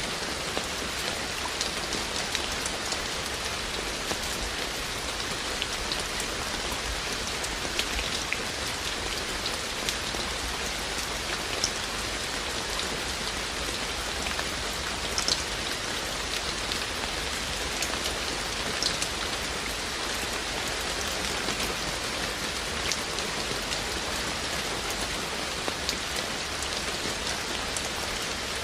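Steady rain falling, an even hiss with scattered individual drops striking nearby surfaces now and then.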